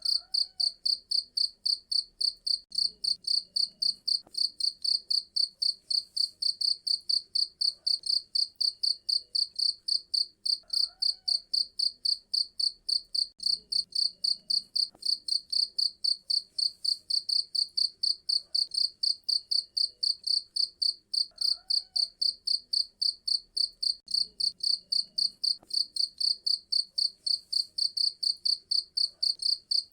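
Cricket chirping loudly and steadily in an even rhythm of about three high-pitched chirps a second.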